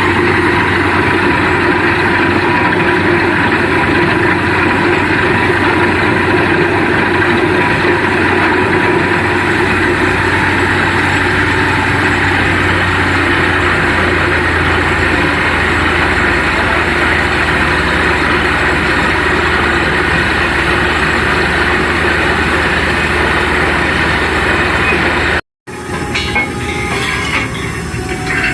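Truck-mounted borewell drilling rig running steadily and loudly, a dense mechanical noise with a constant hum. It cuts off suddenly about 25 seconds in, and quieter, scattered knocks and clatter follow.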